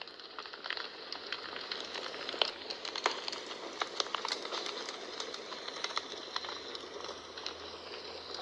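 Wood fire crackling in a fireplace: irregular sharp pops and snaps over a steady hiss of burning.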